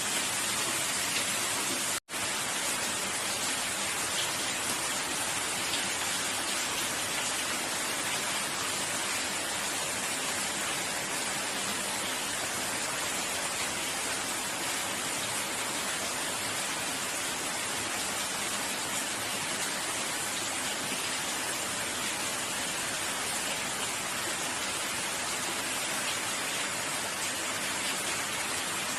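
Steady, dense rainfall, an even hiss of many drops. It cuts out for an instant about two seconds in, then carries on unchanged.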